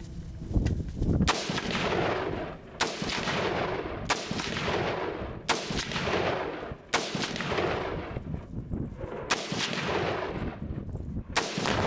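Rifle shots fired one after another, about eight in all, roughly one every second and a half. Each sharp crack is followed by a long rolling echo. These are shots at an exploding Tannerite target that has not yet gone off.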